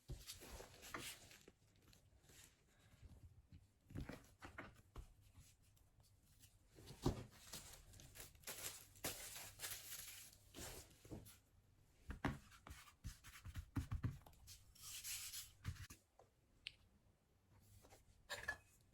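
Faint, scattered rustling, scraping and light clicks of hands and kitchen utensils handling food, with a few sharper ticks.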